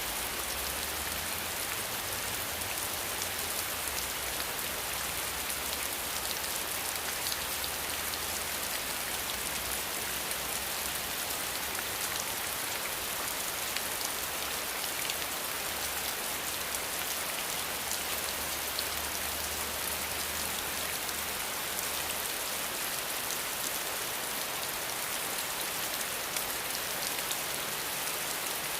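Steady rain falling, an even hiss with many fine drop ticks and no thunder.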